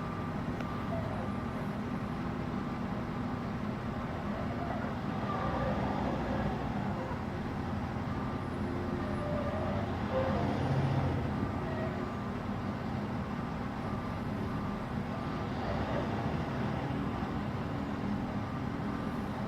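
A large truck's engine running steadily, with road and traffic noise around it.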